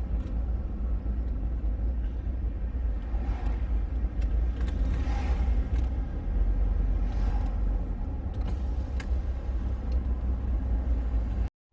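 Car driving, heard from inside the cabin: a steady low rumble of road and engine noise. It cuts off abruptly near the end.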